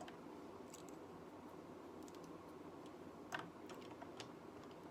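Faint clicks and taps of small plastic Lego pieces being handled and fitted, a few scattered, the sharpest about two-thirds of the way through, over a low steady hiss.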